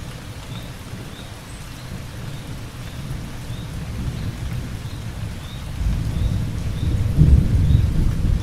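Heavy rain falling steadily with thunder rumbling low, the rumble swelling and growing louder about six seconds in. Faint short high chirps repeat about twice a second behind the rain.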